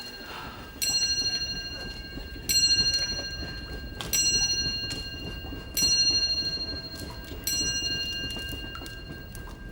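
A clock striking the hour: five evenly spaced bell-like strikes about a second and a half apart, each ringing on and fading before the next.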